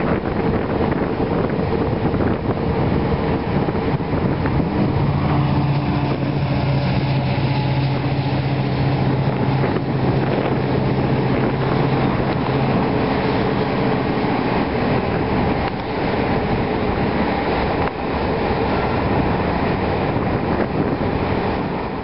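Passenger train of blue double-deck coaches passing: a steady rumble and clatter of wheels on rail, with a low hum between about five and fifteen seconds in.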